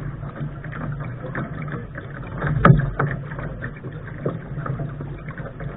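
Water slapping and splashing against the bow of a Lark sailing dinghy under way, in irregular hits with the loudest slap about two and a half seconds in, over a steady low rumble.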